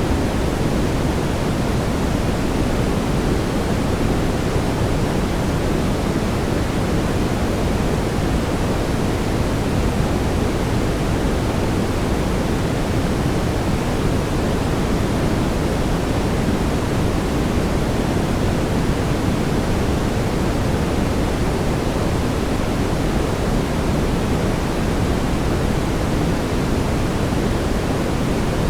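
Steady brown noise: a constant, even rumbling hiss weighted toward the low end, with no change in level.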